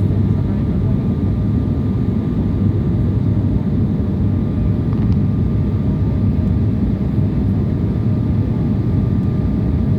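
Steady cabin noise of an airliner in flight: the low rumble of the engines and rushing air, with a faint steady hum above it.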